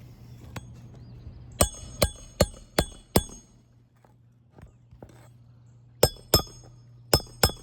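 Hammer striking a steel roof snake to drive roofing nails under an asphalt shingle, each blow a sharp ringing clank. A quick run of five blows comes first, then after a pause two more pairs of blows near the end.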